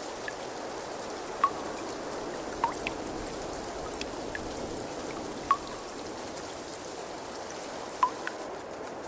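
Steady trickling, flowing water, with four clear drops plinking into it at irregular intervals of one to three seconds.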